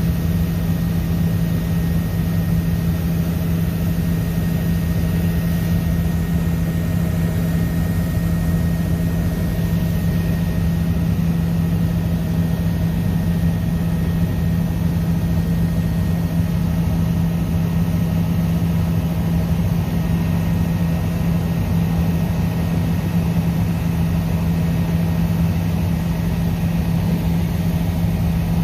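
Helicopter cabin noise in flight: the engine and rotors drone at an even level, with a strong low hum and a faint higher whine above it.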